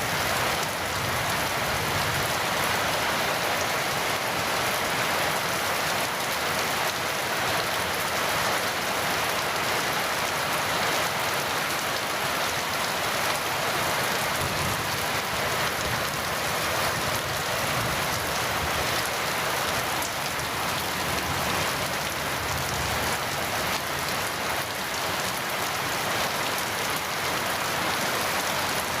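Heavy rain falling steadily: an even, dense hiss of rain on surfaces.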